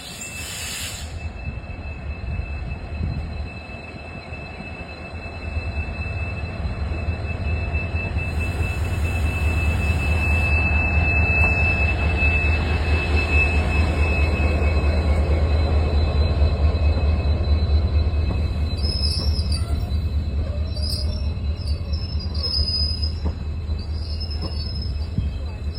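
Diesel-hauled train running past with a low, heavy rumble that builds to its loudest through the middle and then eases off. A thin steady high whine sits over it, and brief high squeals come near the end.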